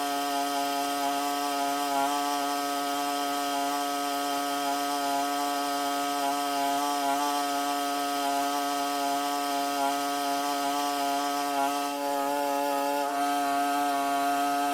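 Small petrol engine of a handheld power tool running steadily at high revs. Its pitch dips slightly now and then.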